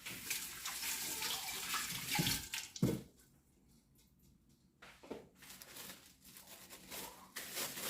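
Water running into a kitchen sink. It breaks off about three seconds in, just after a dull knock, and starts again about two seconds later.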